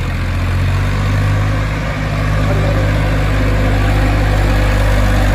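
Massey Ferguson 1035 tractor's three-cylinder diesel engine running steadily, slightly louder after a brief dip about two seconds in.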